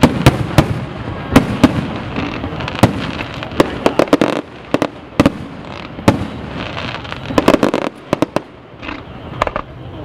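Aerial fireworks bursting: a rapid, irregular run of sharp bangs over a continuous noisy roll. The bangs thin out briefly about halfway through and again near the end.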